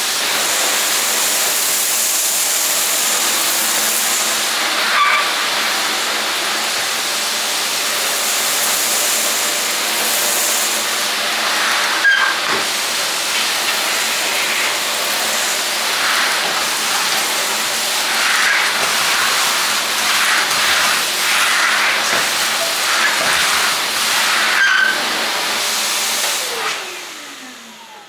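Silvercrest SBBK 700 B2 700 W vacuum cleaner running at suction, a steady loud rush of air over a low motor hum, with a few brief knocks of the nozzle. Near the end it is switched off and the motor whine falls in pitch as it spins down.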